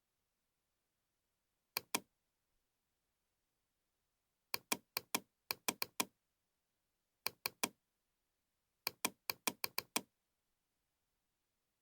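Sharp clicks from a computer mouse and keyboard, in four quick clusters: two clicks about two seconds in, a run of about eight near five to six seconds, three near seven and a half seconds, and about seven just before ten seconds.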